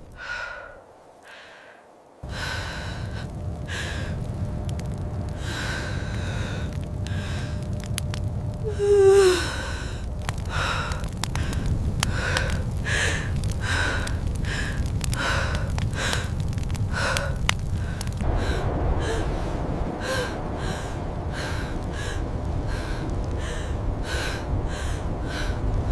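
A woman gasping and panting in the pain of labour, her breaths coming faster in the second half, with a short falling cry about nine seconds in, over a steady low wind rumble.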